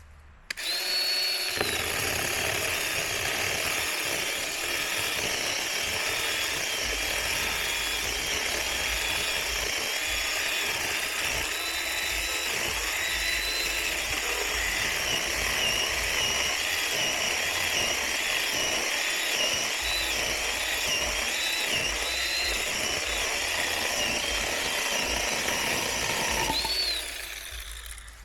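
Small electric chainsaw starts about half a second in and runs with a steady whine. Its pitch dips again and again as the chain bogs into the wood, then it winds down near the end.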